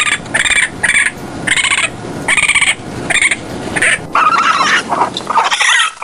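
Raccoon chittering: a quick run of short, high chirps about two a second, turning into wavering trills about four seconds in.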